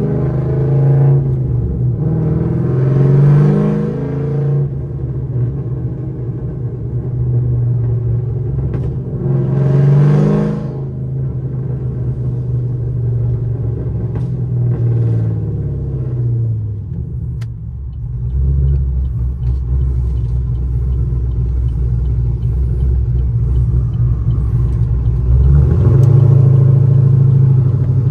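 Chevrolet Camaro SS V8 engine running on the road. Its pitch rises and falls twice in the first half as it accelerates, then settles into a steadier low rumble, and it gets louder again near the end.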